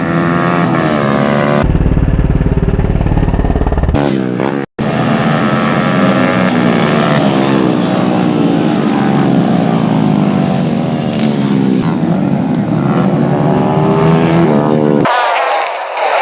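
Several race motorcycles revving hard as they go round the track, their engine pitch repeatedly rising and falling as they accelerate and shift, with a very brief dropout in the sound about five seconds in.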